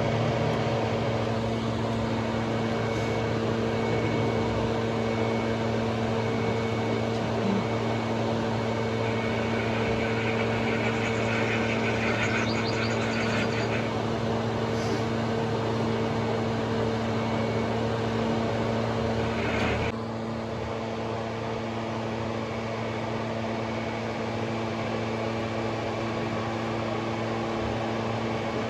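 A steady machine hum with a few held tones. It drops a little in level and changes its tone about twenty seconds in.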